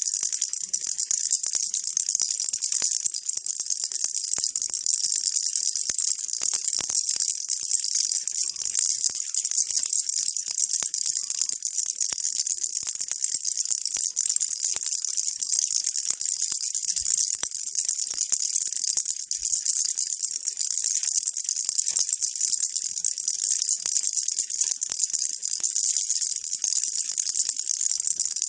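Baby rattle shaken continuously: a steady, unbroken shower of tiny high clicks and jingles with no pauses.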